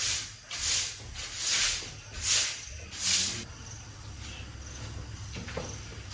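Footsteps swishing through wet grass: five even swishes about 0.8 s apart, then they stop about three and a half seconds in, leaving insects chirping faintly.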